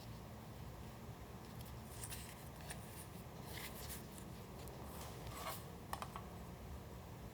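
Paper being handled: scattered short, crisp rustles, a few grouped together about two, four and six seconds in, over a faint low steady hum.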